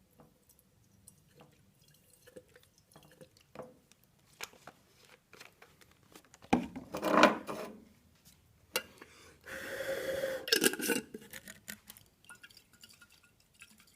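Glass jar being handled while it is readied for a jar pulse engine: scattered light clinks and knocks, with two louder spells of rattling and handling about halfway through and around ten seconds in.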